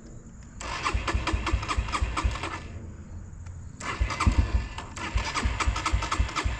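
Yamaha TT-R125 dirt bike's single-cylinder engine being cranked over by its starter in two long tries with a pause between, each a rapid run of pulses, without catching: the fuel petcock is still turned off.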